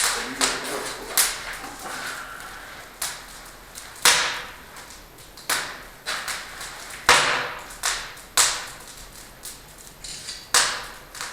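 Wood fire crackling in a newly built open brick fireplace being lit for the first time, with sharp irregular pops about once a second.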